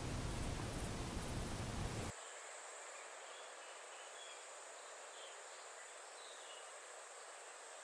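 Outdoor ambience: a louder steady noise that drops off suddenly about two seconds in, leaving a quieter steady high hiss with a few faint short chirps.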